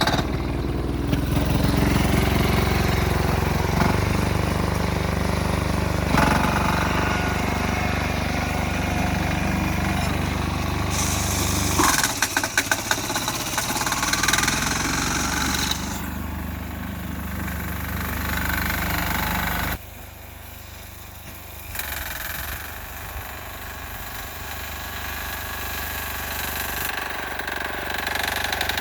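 Small 6 hp single-cylinder air-cooled diesel engine on a garden tractor running at about half throttle while the tractor pushes snow. There is a cluster of knocks about twelve seconds in, and the engine sound drops away sharply around twenty seconds in before building back up.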